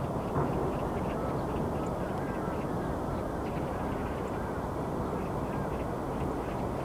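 Birds calling in quick, repeated short notes over a steady rush of outdoor background noise.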